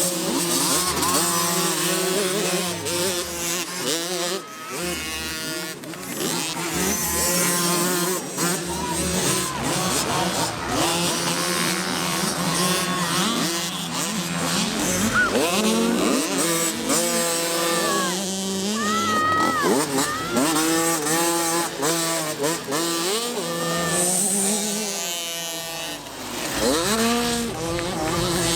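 Several small 50cc motocross bike engines revving, their pitch rising and falling again and again as the riders open and close the throttle and shift, with overlapping engine notes throughout.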